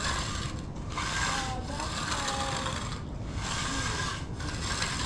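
A hand finishing tool rubbing and scraping across the surface of fresh concrete in about four long strokes, each lasting roughly a second, with short pauses between.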